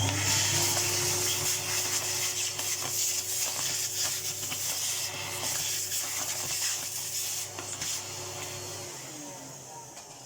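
Vacuum cleaner switched on and running with a steady whine and rush of air, its nozzle scraping over a dusty appliance part. About nine seconds in it is switched off and the motor whine falls away as it runs down.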